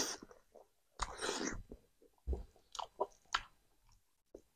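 Close-up chewing of a mouthful of rice and smoked pork: a longer noisy chewing burst about a second in, then a run of short wet mouth smacks.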